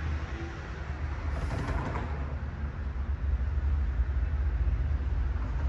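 Steady low rumble of a train at the station, with a brief hissing rise about one and a half seconds in.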